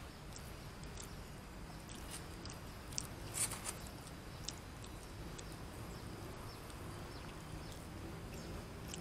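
A person chewing food. A few sharp clicks and crunches come about three seconds in, over steady low background noise.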